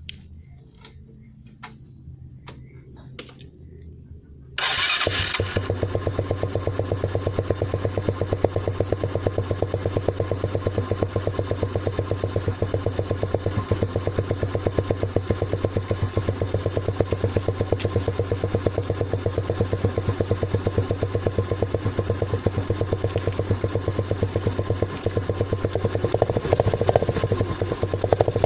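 Yamaha Mio Sporty scooter's single-cylinder four-stroke engine starting about four and a half seconds in, then idling steadily through a homemade muffler: an empty tin can with holes punched in it, pushed onto the stock exhaust pipe. The exhaust picks up slightly near the end.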